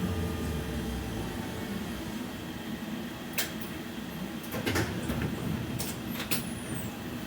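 Interior of a BKM 60102 tram: a steady low hum and rumble from the car, with a faint falling whine dying away near the start and several sharp clicks and knocks a few seconds in.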